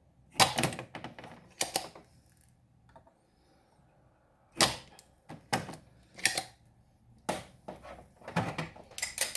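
Irregular sharp plastic clicks and clacks of small hand tools being picked up and handled on a workbench, a spring-loaded desoldering pump among them, ending in a quick run of clicks.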